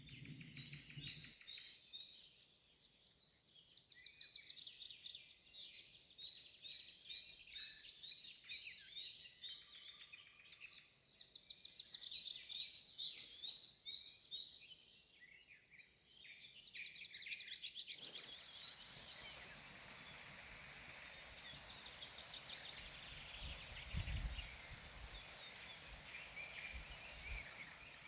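Songbirds singing in woodland, several birds together in quick chirps and trills. About two thirds of the way through the recording switches abruptly to a steady hiss with birdsong faintly over it, and a brief low thump comes near the end.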